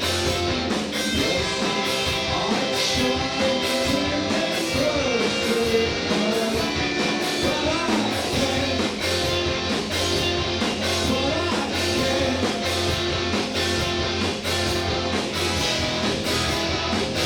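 A live indie rock band playing loud and steady, with distorted electric guitars, a drum kit keeping a regular beat, and a sung or lead-guitar melody on top.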